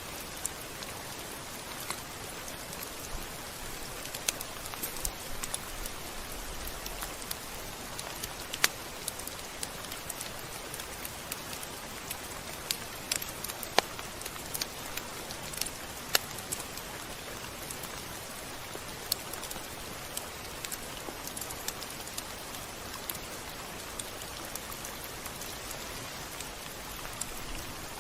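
Steady rain falling, with scattered sharp drop hits scattered through it, a few of them louder.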